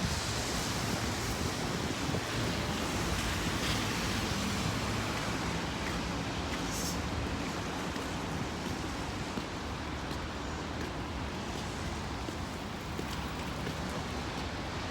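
Strong wind buffeting the microphone in a steady rushing noise, with rain and road traffic on a busy street underneath.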